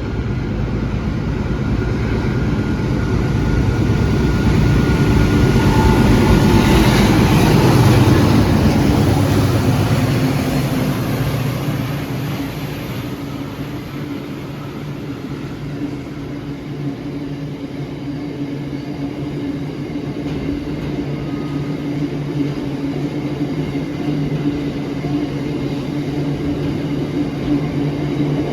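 Pair of diesel-electric freight locomotives, an 80 class and an 81 class, passing under power. The sound swells to its loudest about seven to eight seconds in, with the pitch dropping as they go by, then settles into a steady low engine drone.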